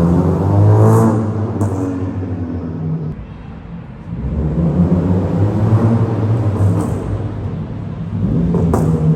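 2012 Honda Civic's 1.8-litre four-cylinder through an aftermarket exhaust, revving up and easing off. The note rises about a second in, drops to a lull about three seconds in, then climbs again twice.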